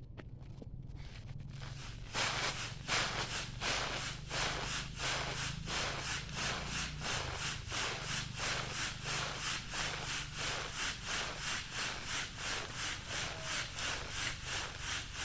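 Rhythmic back-and-forth rasping strokes of a hand tool working a material, about three a second, starting about two seconds in.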